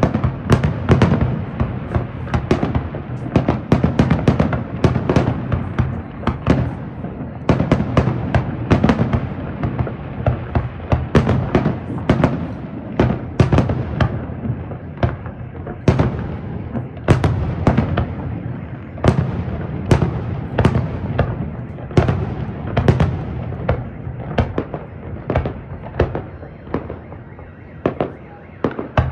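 Aerial firework shells bursting in rapid, irregular succession, several bangs a second, over a continuous low rumble.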